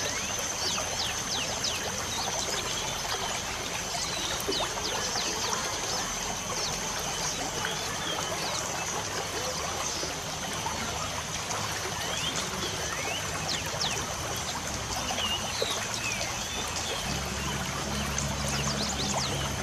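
Steady wash of light rain and trickling water, with birds chirping many quick, short chirps throughout.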